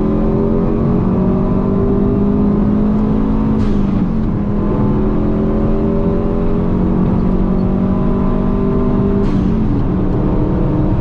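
Subaru WRX turbocharged flat-four accelerating hard at full throttle, its pitch climbing steadily through each gear and dropping sharply at upshifts about four seconds in and again near nine and a half seconds.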